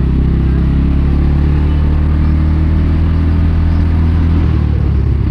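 Motorbike engine running at a steady speed under way, a low even drone that shifts in note about four and a half seconds in.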